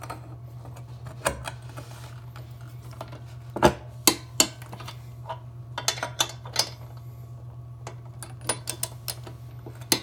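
Irregular metal clicks and clinks of a wrench on the nuts of a snow-bike ski's spindle bracket bolts as they are torqued to 33 foot-pounds, with a couple of sharper clicks about four seconds in.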